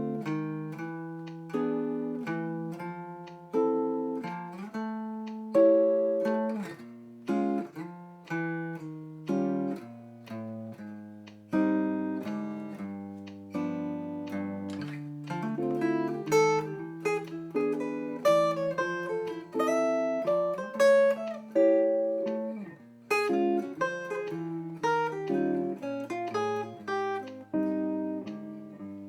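Solo acoustic guitar playing an instrumental piece: plucked notes with sharp attacks that ring and fade, over a line of low bass notes.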